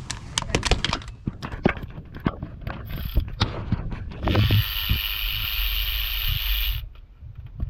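Irregular metallic clicks and clanks of tools on the starter's bolts, then a Milwaukee cordless electric ratchet running steadily for about two and a half seconds and stopping abruptly, spinning out a starter bolt.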